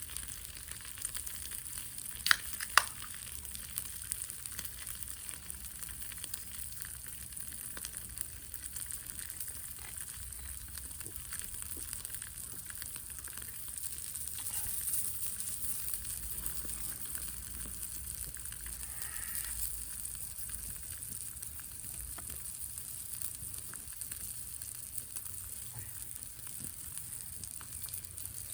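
Meat and its dripping fat sizzling and spitting on a grill over a wood fire, a steady hiss with fine crackles throughout. Two sharp clicks a little over two seconds in.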